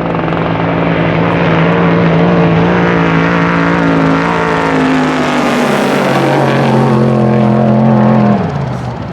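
Desert race truck's engine running hard at high revs, a steady droning note that grows louder. About eight seconds in, the pitch drops and the sound falls away sharply.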